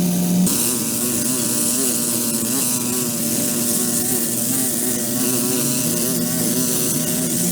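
A small engine running steadily with a buzzing drone; its pitch steps up about half a second in, wavers a little, and drops back near the end.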